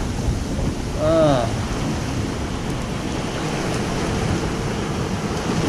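Ocean surf washing in, a steady rushing noise with wind on the microphone. A man's voice makes a short hum about a second in.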